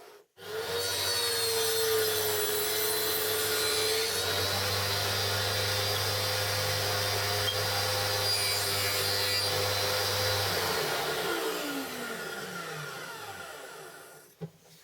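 Electric motor of a homemade band saw switched on, running steadily for about ten seconds, then switched off and winding down with a falling pitch.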